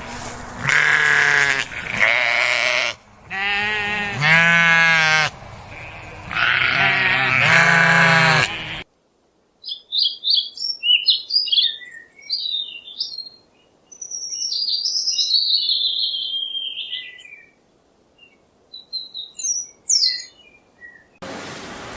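Three long, wavering bleats from sheep or goat-like livestock over the first nine seconds, then a string of high chirping bird calls.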